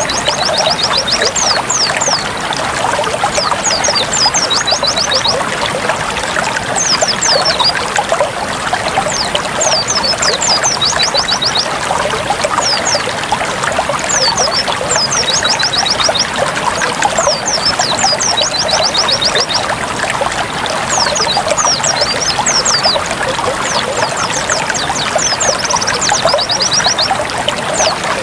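Water trickling and gurgling steadily, with a white-eye (pleci) singing over it in short bursts of fast, high-pitched twittering notes every couple of seconds.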